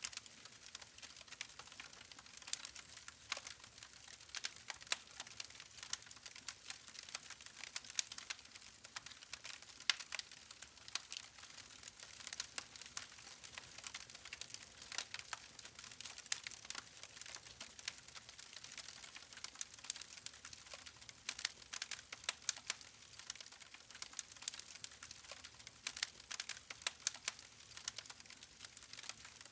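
Campfire of burning logs crackling: dense, irregular sharp pops and snaps over a soft hiss.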